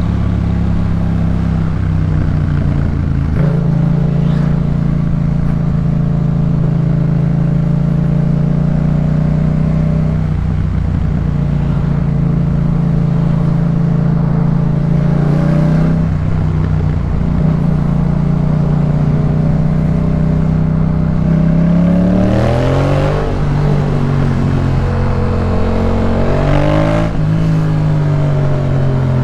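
Yamaha MT-07's 689 cc parallel-twin through a Jeskap K4 full exhaust, running under way at a mostly steady pitch with brief breaks in the note every several seconds. About three-quarters of the way through the revs drop, climb for a few seconds and drop again.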